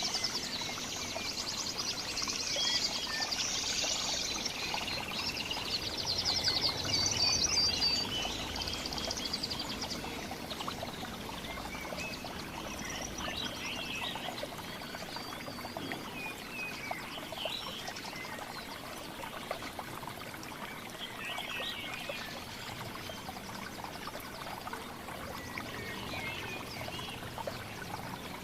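Small songbirds chirping and calling, thickly and rapidly for the first several seconds and then in scattered calls, over a steady sound of running water.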